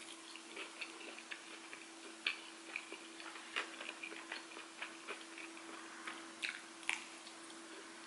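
Chewing pizza crust close to the microphone: faint, irregular small clicks and wet mouth sounds, over a low steady hum.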